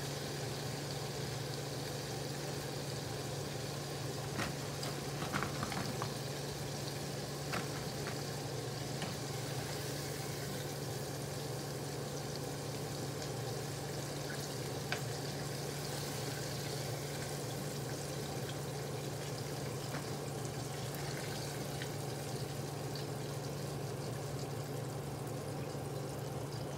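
Chicken gizzards deep-frying in hot oil in a small pot: a steady sizzle. A few light clicks of a slotted spoon against the pot come in the first third and once about halfway, over a steady low hum.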